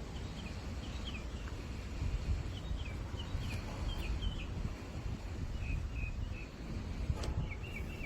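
A small bird chirping in short repeated calls over a steady low rumble.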